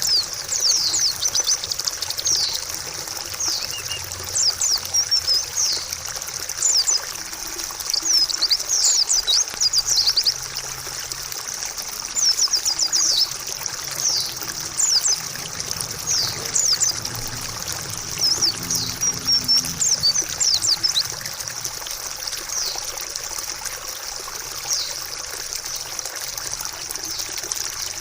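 Water trickling steadily, with a white-eye (pleci) singing over it in quick, high twittering phrases that come in bursts with short pauses between them.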